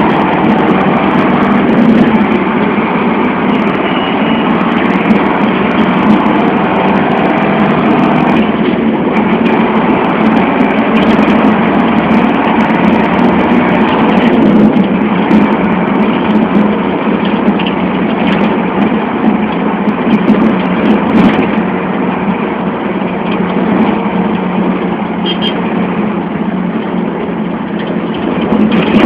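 Expresso Bus model 1072 city bus running as it drives along, a steady engine drone with road noise and occasional short clicks and rattles.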